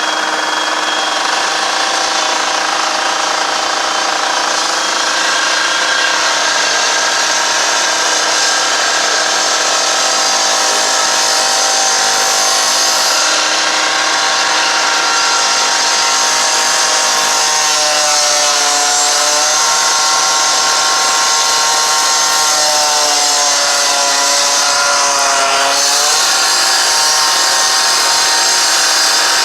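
A small engine running steadily at high revs, its pitch wavering up and down in the second half.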